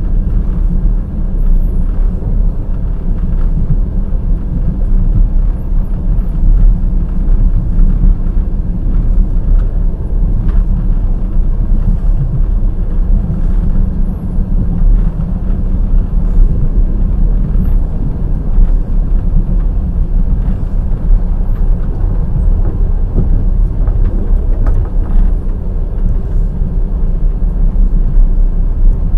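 Wheels of a moving passenger express train running on the rails: a loud, steady deep rumble with scattered faint clicks from the wheels passing over the track.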